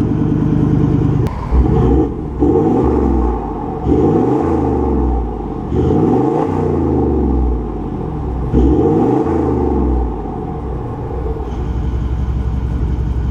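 Toyota LandCruiser 78 Series 4.5-litre V8 turbo-diesel running through a 3-inch aftermarket exhaust: idling, then blipped up and back down about five times, then settling back to idle.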